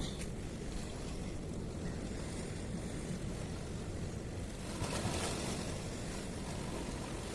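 Steady sea and wind noise at a harbour: a low, rumbling wash of water, with a wave surging up briefly about five seconds in.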